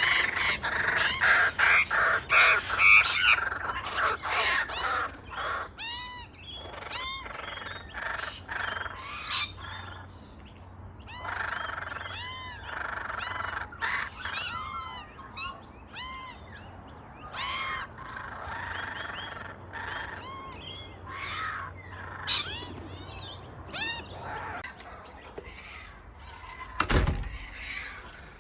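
Birds calling: a dense run of loud squawking calls in the first few seconds, then clusters of short, repeated arching chirps with pauses between. A single sharp thump comes near the end.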